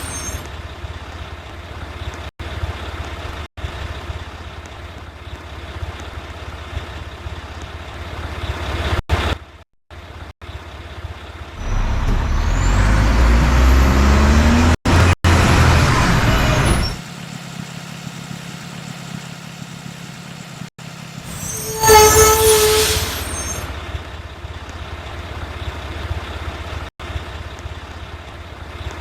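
Mack rear-loader garbage truck's diesel engine idling. It revs up louder, with a rising whine, for about five seconds in the middle, typical of the truck working its hydraulic packer. About two-thirds of the way through, an air brake gives a sharp hiss with a brief whistle.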